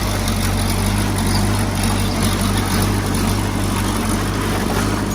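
Heavy-equipment diesel engine running steadily at an even speed, with a constant low hum.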